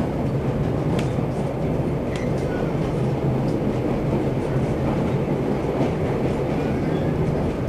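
Steady running noise of a White Pass & Yukon Railway passenger car rolling along the rails, heard from on board, with a couple of faint clicks from the wheels about one and two seconds in.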